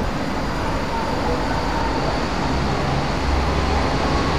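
Low, steady rumble of an MRT train approaching along the elevated track, growing a little louder in the last second or so.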